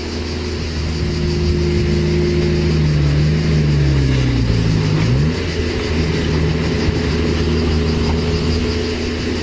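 An engine running steadily; its pitch sags a little, then rises quickly about five seconds in and holds again.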